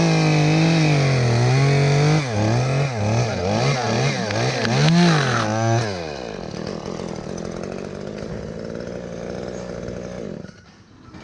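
Chainsaw at full throttle cutting through a rotten ash limb. The engine note rises and falls about five times as the cut goes on, then drops back to a low idle about six seconds in. The idle fades out near the end.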